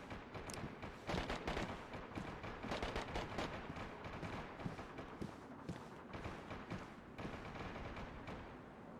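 Distant gunfire from a battle: a dense, irregular run of overlapping shots and heavier booms, thickest in the first few seconds.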